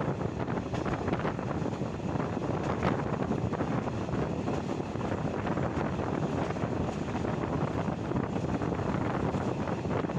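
Steady running noise of a passenger train heard at an open coach window: wheels rolling on the rails, with wind buffeting the microphone.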